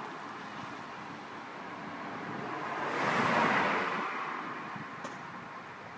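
A car passing on a nearby road: a tyre and engine whoosh that swells to a peak about three seconds in, then fades.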